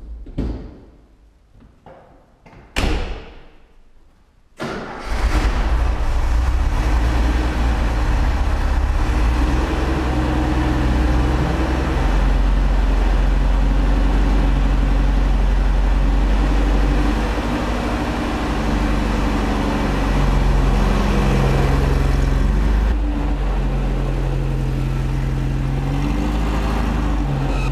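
A car door thuds shut, then about a second and a half later the Porsche 912E's 2.0-litre flat-four engine fires up and settles into a steady idle, rising and falling slightly in level.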